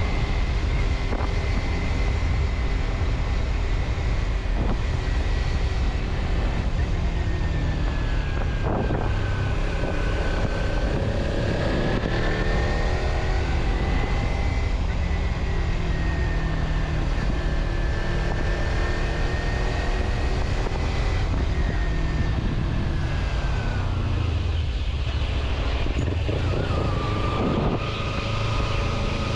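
A road vehicle travelling steadily: continuous engine and road rumble, with a whine that slowly wavers in pitch and drops lower near the end.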